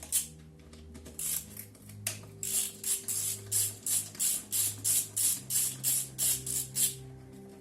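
Ratchet wrench clicking in quick, even back-and-forth strokes, about three a second, undoing the 8 mm bolts on a GY6 157QMJ scooter engine. There is a short pause about a second in, and it stops shortly before the end.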